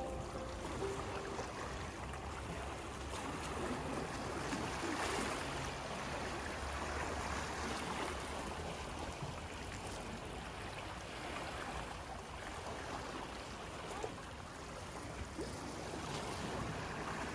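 Sea waves washing onto the shore, a steady rush of surf with a few faint clicks.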